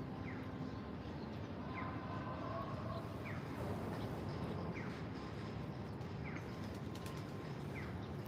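A bird's short descending chirp, repeated at a steady pace about every second and a half, over a steady low background rumble.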